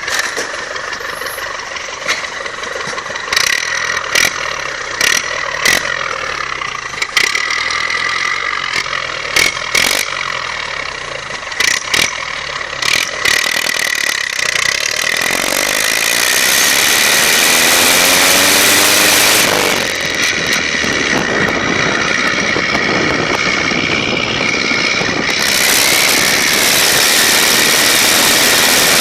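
Ford F-100's Perkins four-cylinder diesel running through an open, unsilenced exhaust. Irregular sharp clicks come over the first half. From about halfway it gets louder and revs up with rising pitch, drops briefly a little past two-thirds of the way through as at a gear change, then climbs again.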